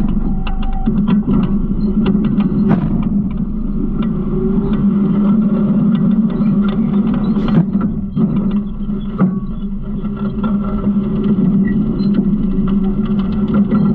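Garbage truck running: a steady engine drone with many short clanks and rattles throughout.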